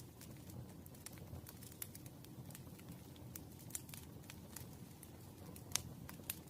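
Campfire crackling: irregular sharp pops and snaps of burning wood over a low steady rush of flames, with one louder pop near the end.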